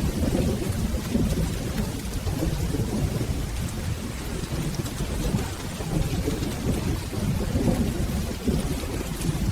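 Steady rain with a continuous low rumble of rolling thunder underneath, and no single loud clap.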